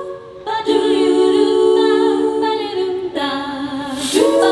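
A cappella vocal group singing wordless close harmony, holding one long chord and then moving to a second chord that swells near the end.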